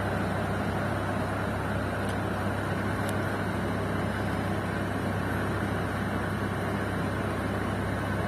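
Steady machine hum and hiss of room ventilation, unchanging, with a faint tick about two seconds in and another about three seconds in.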